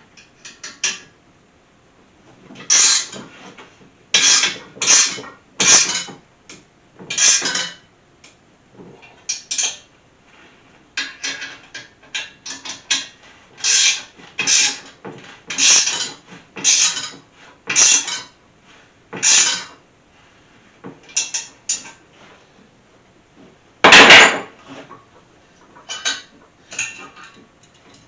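Ratchet wrench tightening the steel engine-stand bolts: a run of short rattling ratchet strokes, about one a second with pauses, and one loud metal clank about 24 seconds in.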